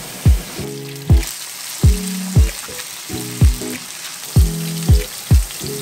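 Soaked porcini mushrooms sizzling as they fry in hot oil and garlic in a frying pan, the hiss strengthening just over a second in as they go in. Background music with a steady kick-drum beat is louder.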